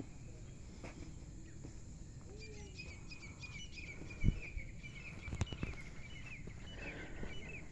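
A bird calling in a quick string of short, repeated chirps, starting about two and a half seconds in, over a low steady rumble. A single sharp knock comes near the middle.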